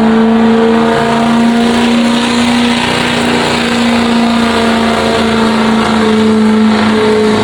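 A truck-pull competitor's engine at full throttle under load, pulling the weighted sled. It holds a loud, steady high-rpm note with little change in pitch.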